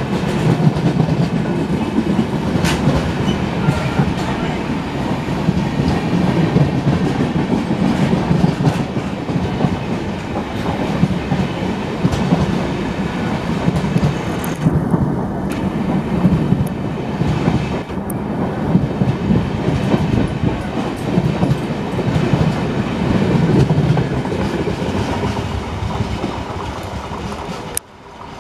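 Passenger coaches of an Indian Railways express rolling past close by, their steel wheels clattering over the rail joints in a steady clickety-clack. The noise drops away suddenly near the end.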